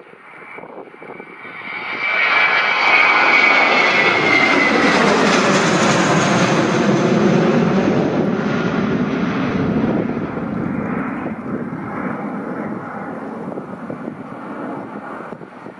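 Aircraft engines passing close by: the sound swells about two seconds in, carries a high whine that falls in pitch as the aircraft goes past, then slowly fades.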